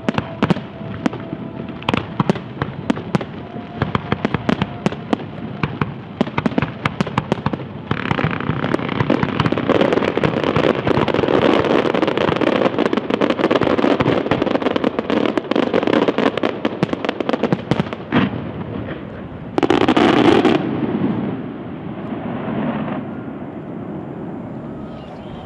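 Large professional fireworks display: a rapid string of sharp bangs and cracks, thickening about eight seconds in into a dense continuous crackle, with one louder burst about twenty seconds in, then tailing off.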